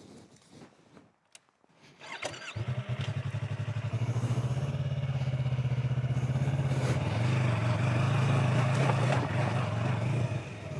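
A few faint clicks, then about two seconds in a motorcycle engine is started: a brief crank, and the engine catches and runs on with a steady, even pulse.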